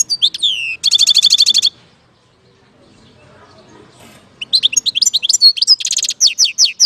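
European goldfinch singing: two loud bursts of quick, high twittering notes, each with a fast rattling trill, about two and a half seconds apart.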